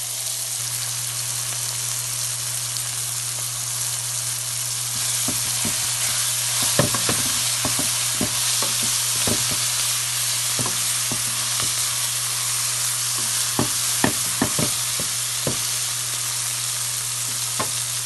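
Onions, bell peppers and tomatoes sizzling in oil in a metal pan, with freshly added coriander leaves. From about five seconds in, a wooden spatula stirs and scrapes the pan, making frequent short clicks.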